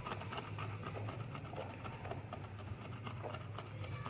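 Light, irregular scraping and rubbing on the LCD panel's glass as glue residue from the old polarizing film is worked off, over a steady low hum.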